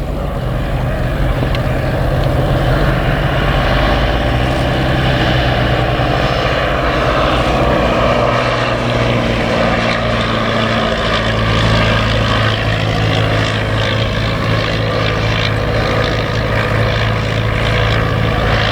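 Vintage propeller aeroplane's piston engine running steadily.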